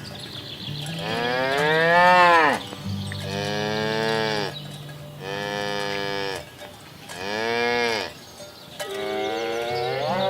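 Cows mooing: about five long moos one after another, each rising and then falling in pitch, with the last still rising at the end.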